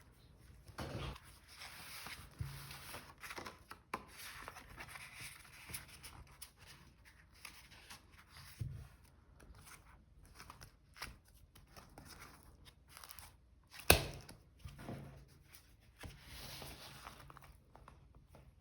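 Paper and stickers being handled on a desk: rustling, peeling and tearing, with small scrapes and taps. One sharp tap about three-quarters of the way through is the loudest sound.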